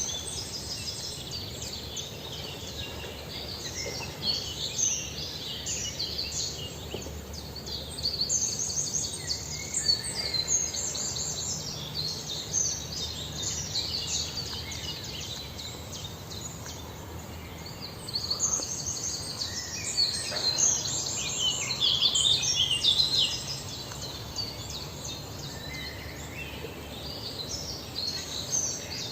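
Small birds chirping: many quick, high-pitched chirps in overlapping runs, busiest about a third of the way in and again about two-thirds in.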